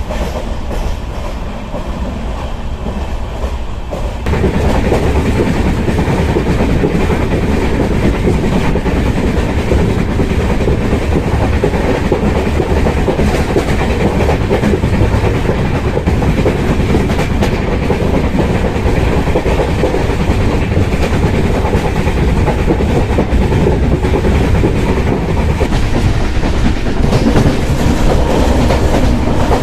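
Passenger train running at speed, heard from on board: a steady rumble with the clickety-clack of wheels over the rail joints. The noise gets louder about four seconds in.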